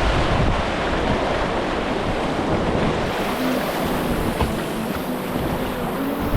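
Rushing white water of a river rapid: a loud, steady rush, with wind buffeting the microphone.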